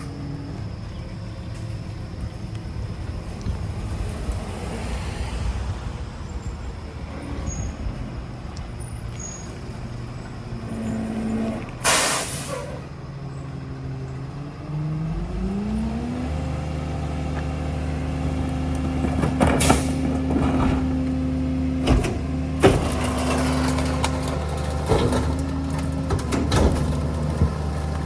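Engine of a Ford F-750 rear-loader garbage truck running, with a short, sharp air-brake hiss about twelve seconds in. The engine then climbs to a higher, steady speed and holds there, with several sharp clanks in the later part.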